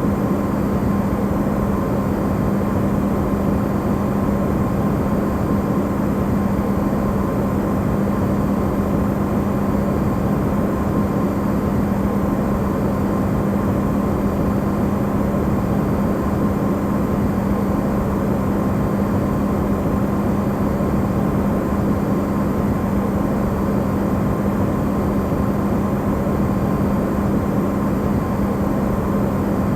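Electrolux refrigerator running, recorded up close and amplified: a steady low hum over an even rushing hiss, with no change throughout.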